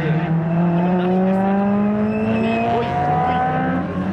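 Honda Civic EG6's B16A four-cylinder VTEC engine accelerating hard out of a corner, its pitch rising steadily as it pulls through a gear.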